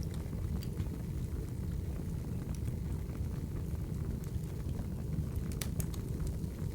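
Wood fire burning: a steady low rumble of flames with scattered sharp crackles and pops, a small cluster of them about five and a half seconds in.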